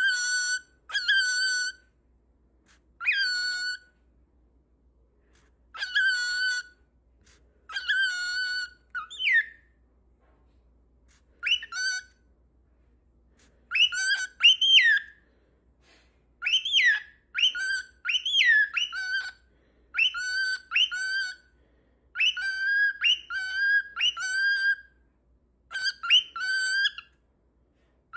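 Cockatiel whistling in short repeated phrases, each a held note with quick upward slides, broken by pauses and coming in quicker succession after about the middle.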